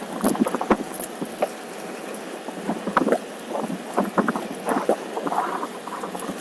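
OneWheel electric board rolling over a rough trail: an irregular run of clicks and knocks from the wheel and board over the ground, over a steady rushing noise.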